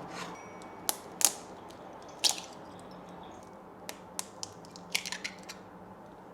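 Irregular sharp clicks and taps of small hard objects being handled, a loud one a little over two seconds in and a quick cluster near the end, over a faint steady hum.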